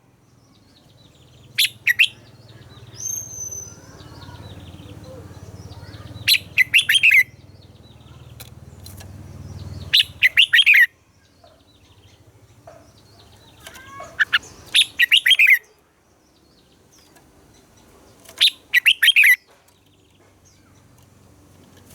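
Red-whiskered bulbul singing: five short, loud phrases of quick, rippling notes, one about every four seconds.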